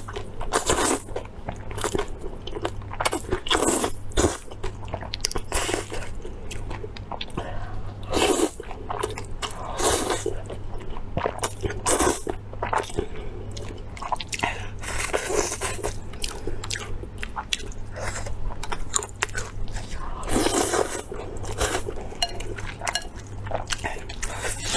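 A person biting and chewing food close to the microphone, with wet, crunchy mouth sounds coming irregularly, over a faint steady low hum.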